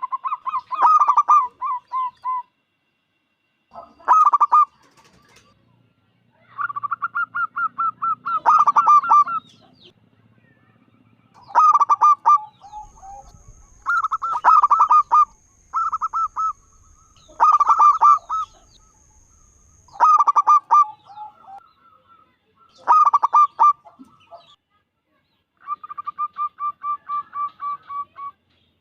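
Zebra dove (perkutut) cooing repeatedly: about ten phrases of rapid, staccato coo notes, each a second or two long, separated by short pauses.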